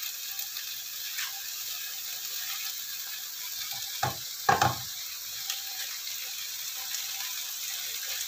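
Beef and eggplant sizzling steadily in a wok under a heap of fresh lettuce leaves, with two short crunches about four seconds in as a hand presses the leaves down.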